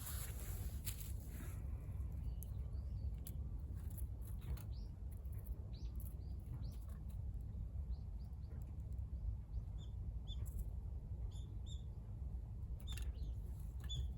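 Small wood fire in a VARGO Hexagon wood stove crackling, with scattered sharp pops, over a steady low rumble. Short high bird chirps come in now and then through the second half.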